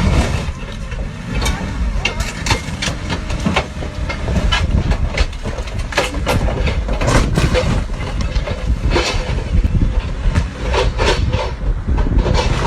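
Vehicle noise: a steady low rumble with many sharp knocks and rattles throughout.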